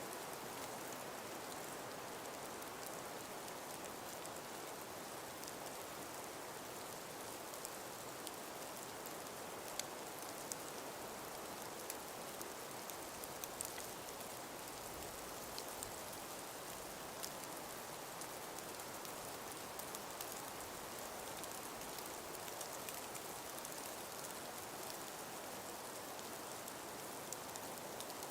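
Steady, even hiss of a calm winter breeze in a frosted forest, with scattered faint ticks and patters over it.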